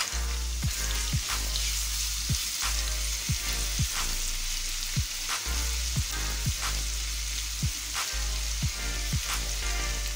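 Ginger-garlic paste and sliced onions frying in hot oil in a nonstick wok: a steady sizzle, with frequent sharp pops and clicks as a silicone spatula stirs the paste in.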